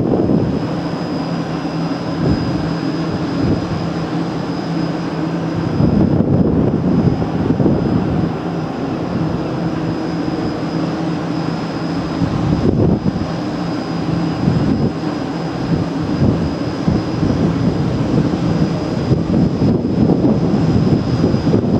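Steady low rumbling drone of a cruise ship's machinery and ventilation, with a constant low hum and a thin high whine running over it, and uneven gusty swells in the rumble.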